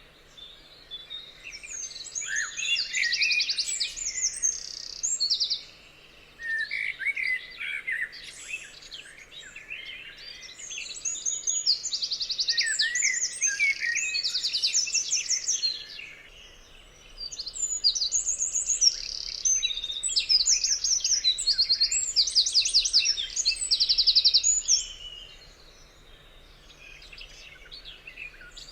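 Songbirds singing and chirping, with fast high trilled phrases over lower chirps, in bouts of several seconds broken by short lulls.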